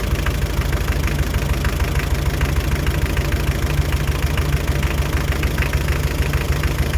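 Hyundai Terracan's 2.5 D4BH four-cylinder diesel idling with a rhythmic knock while the fourth injector's fuel line is tightened back. The knock is traced to the fourth injector, which is leaking fuel.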